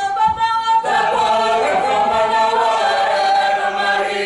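Māori waiata sung by a group of voices without instruments: one high voice holds a note alone, and the rest of the group joins about a second in, singing long held notes together.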